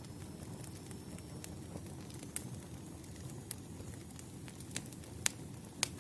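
Wood campfire burning: a steady low rumble of flames with sharp, irregular crackles and pops from the burning logs, a few louder pops in the second half.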